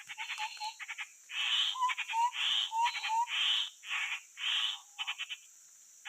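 Grey-headed babbler calls: a string of harsh, rasping churrs about half a second each, broken by quick dry rattles and a few short whistled notes.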